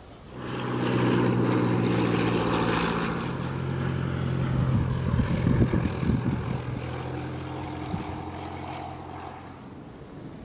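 Propeller aircraft engines droning with a steady low hum, starting abruptly just after the start, loudest over the first few seconds and then slowly fading.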